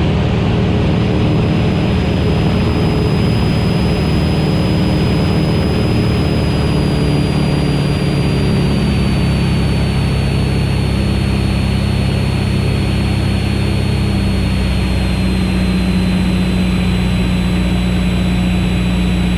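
Van's RV-8's piston engine and propeller droning steadily in the cockpit on final approach to land, its pitch easing down slightly a couple of times as power comes back.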